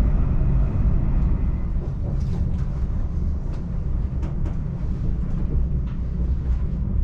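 Interior running noise of a Class 745 Stadler FLIRT electric train on the move: a steady low rumble with scattered sharp clicks.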